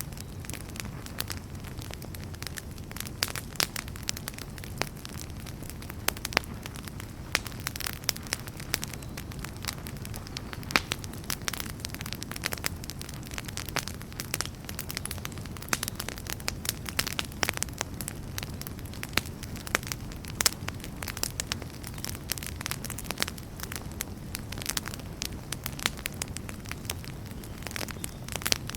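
Wood campfire burning with frequent sharp crackles and pops over a steady low rumble of the flames.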